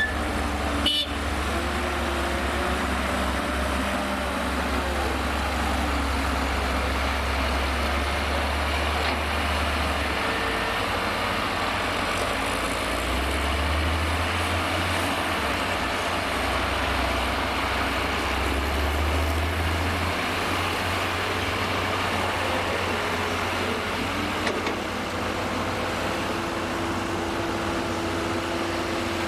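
Heavy diesel engines of construction machinery running, the engine note shifting several times as revs rise and fall, with a short sharp knock about a second in.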